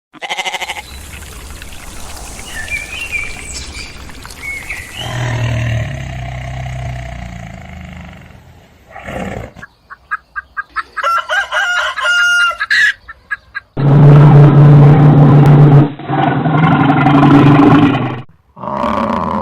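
A run of different animal calls, one after another, with abrupt changes between them and short gaps: a noisy stretch with small high chirps, a rapid pulsed call in the middle, then a loud low call lasting several seconds and a short call near the end.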